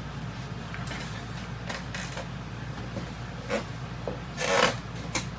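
Packing material being handled: foam and cardboard rubbing and scraping in short scuffs, the loudest a longer scrape about four and a half seconds in. A steady low hum runs underneath.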